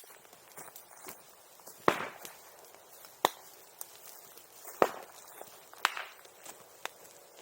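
Bamboo bursting in a bonfire: four loud, sharp pops spaced a second or so apart, with smaller pops and faint crackling of the fire between them.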